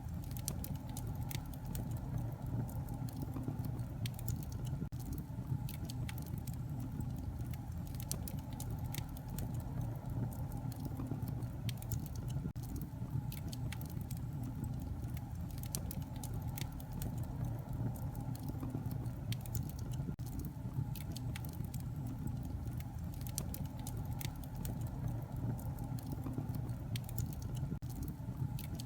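Wood fire crackling in a fireplace: a steady low rumble of flames with frequent sharp pops and snaps scattered throughout.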